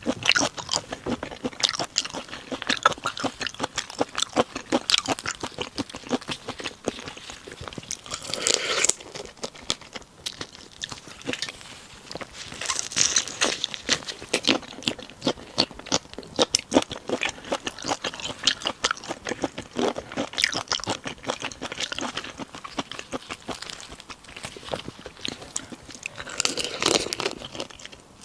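Close-miked chewing of crunchy food: a dense run of crisp crackles and crunches, with a few louder bursts of chewing along the way.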